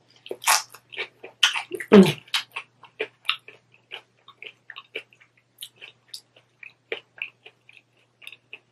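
Close-up mouth sounds of crunching and chewing a crispy hard-shell taco: a run of irregular crisp crunches, loudest about two seconds in, then growing fainter and sparser.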